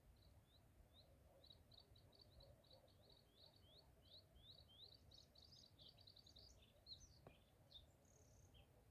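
Faint songbird singing: a run of short high chirps, about three a second, that quickens into a dense twittering phrase around halfway, then breaks into scattered, varied higher notes. A low rumble lies underneath.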